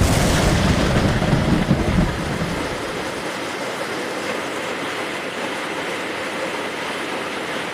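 Heavy rain falling steadily, with a low rumble of thunder in the first two seconds or so that then fades out.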